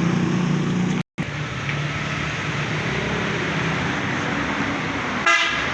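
Vehicle engine and road noise, steady, heard while travelling, with a short rapid rattle near the end.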